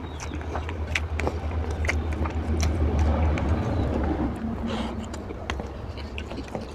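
Close-miked eating: wet chewing of a mouthful of rice and mutton fat curry, with many sharp lip-smacking and mouth clicks. A low rumble underneath swells about two seconds in and eases again.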